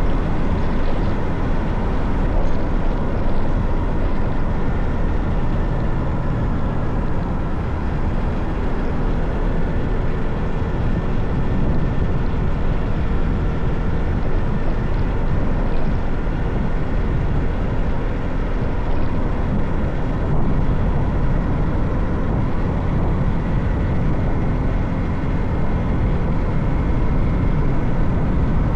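Motorcycle running steadily on a ride, its engine and road and wind noise heard from the rider's seat as an even, unbroken rumble.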